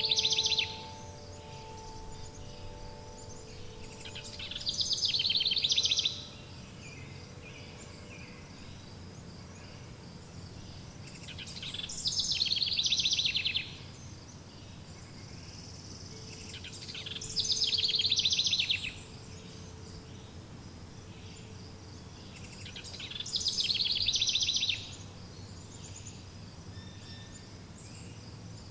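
A songbird singing the same fast trilling phrase over and over, about every six seconds, each phrase swelling up for a second or two, over a steady low hiss. Wind chime tones ring out and fade in the first few seconds.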